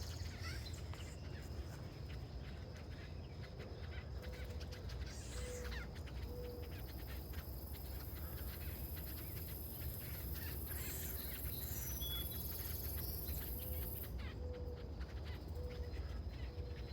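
Wild birds calling outdoors: scattered high chirps, and twice a short run of about four low notes, over a steady low rumble.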